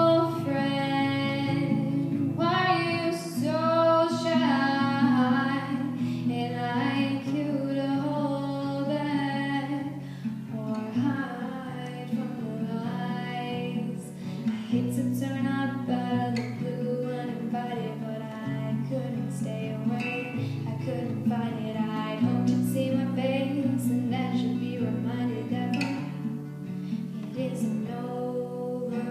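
A woman singing a slow ballad to acoustic guitar accompaniment.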